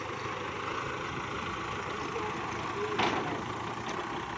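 Kubota L5018 tractor's diesel engine idling steadily, with one sharp knock about three seconds in.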